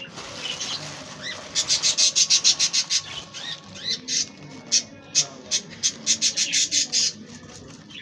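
Budgerigars chirping, with two bursts of rapid fluttering, about ten beats a second, from wings flapping.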